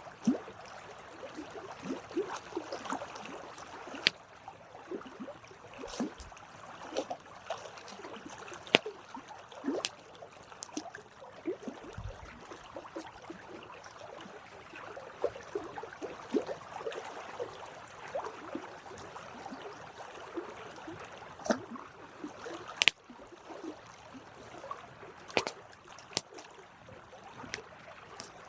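Wood campfire burning: a steady soft hiss with frequent irregular crackles and sharp snaps, a few of them louder pops.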